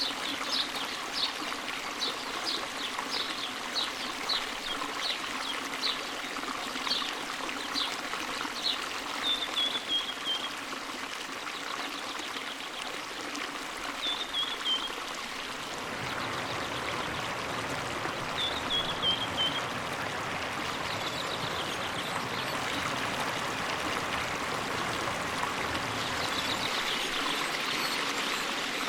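A forest stream running steadily, its rush growing fuller about halfway through. Over it a bird calls: a quick series of short high notes, about two a second, for the first nine seconds, then a short falling trill three times.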